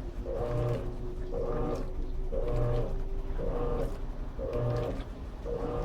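Electrolux Turbo Capacidade LT13B top-load washing machine in its agitation stage, the agitator reversing back and forth in an even rhythm of about two strokes a second, each stroke a short motor hum.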